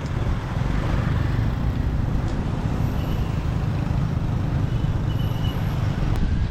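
Motorbike riding in city traffic: a steady low rumble of engine, tyres and road noise, with a few faint, brief high tones partway through.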